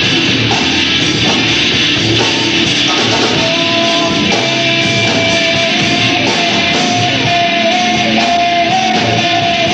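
Rock band playing loud guitar-driven music. A long held high note enters about three and a half seconds in and creeps slowly upward in pitch.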